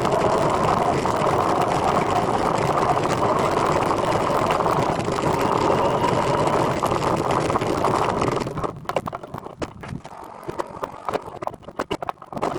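Steady rolling and wind noise of a recumbent trike being ridden. About two thirds of the way in, the noise drops away and only scattered clicks and ticks are left for a few seconds.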